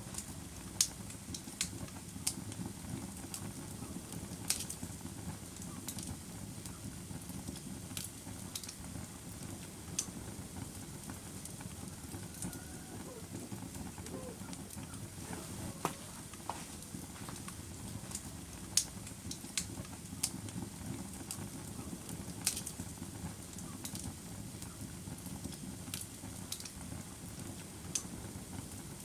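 Wood fire burning with a steady low crackle and irregular sharp pops and snaps of burning logs.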